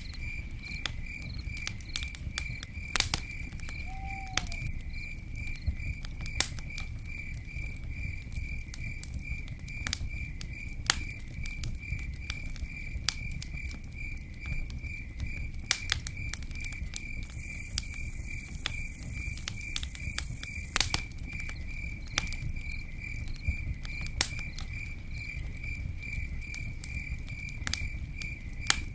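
Campfire burning with a low steady rumble and frequent sharp crackles and pops. A cricket chirps throughout in a fast, even pulse, and a brief high hiss rises from the fire around the middle.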